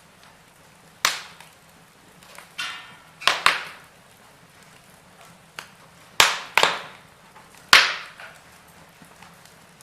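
Wood fire in a fireplace crackling, with about seven sharp, loud pops and snaps spread irregularly over a faint steady hiss. A brief hiss comes just before a quick pair of pops.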